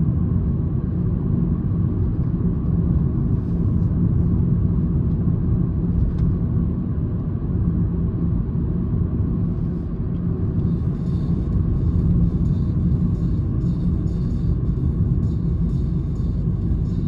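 Steady drone of a Citroen C-Elysee's 1.2 PureTech three-cylinder petrol engine with tyre and road rumble, heard inside the cabin while cruising; the engine note holds a constant pitch.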